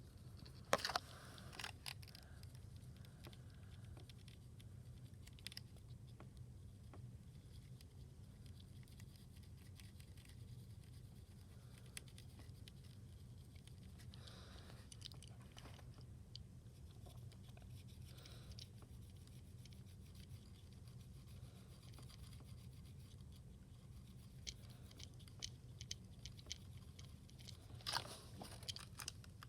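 Faint scratching and tapping of a colouring tip worked over a small die-cast toy car, over a steady low hum, with a few sharper clicks of handling about a second in and near the end.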